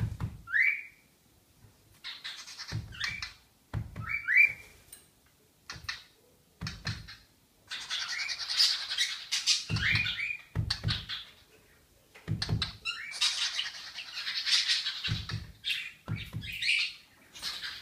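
A small pet bird chirping and squawking in repeated bursts, with short rising whistled notes and stretches of rapid chatter. Dull low thumps come along with several of the bursts.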